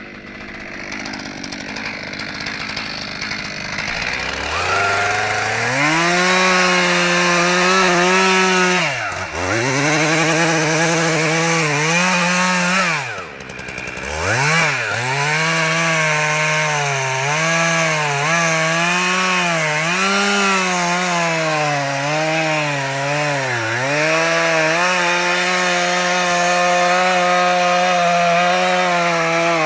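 Chainsaw running at high revs, cutting wood, its pitch wavering under load. The engine note drops steeply and picks back up twice, about a third of the way in and near halfway through, as the throttle is let off and opened again.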